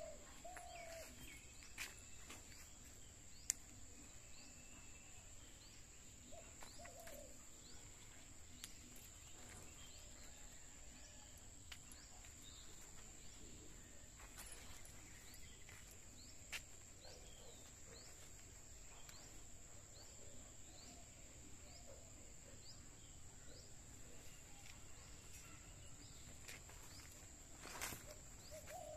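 Faint outdoor ambience with scattered bird chirps and a few short, low, curved calls, over a steady thin high whine. A few sharp clicks, the loudest about three and a half seconds in.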